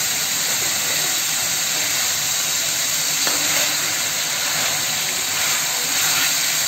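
Masala-marinated boneless chicken frying in hot oil in a steel kadai: a steady sizzle.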